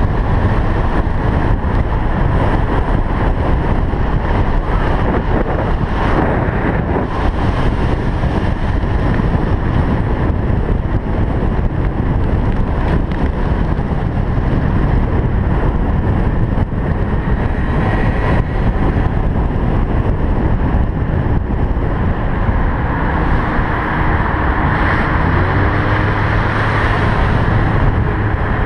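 Street traffic: cars driving past in a steady rush of road noise, with wind rumbling on the microphone. Near the end a low steady engine hum comes in.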